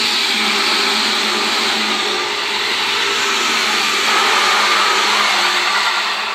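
Seibu 4000 series electric train running past close by: steady wheel-on-rail noise with a faint low hum, easing off near the end.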